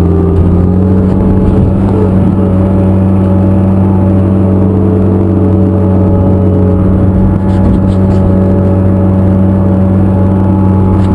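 An engine running steadily at a constant speed, a loud, even low drone with no change in pitch.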